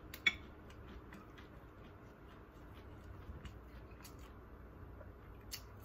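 Quiet chewing and eating sounds: scattered soft mouth clicks, one sharper click about a third of a second in.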